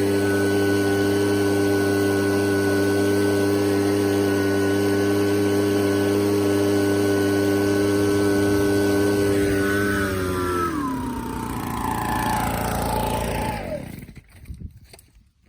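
A blower running steadily at one speed, used to fan a bonfire. About ten seconds in it is switched off: its pitch falls as it spins down, and it stops shortly before the end.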